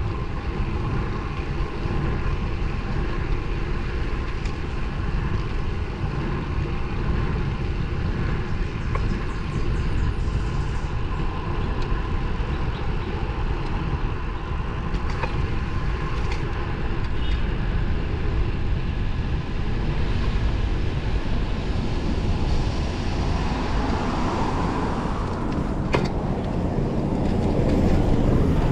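Steady rush of wind on the microphone with road noise from a road bike's narrow 23 mm tyres rolling on pavement. A single sharp click comes near the end.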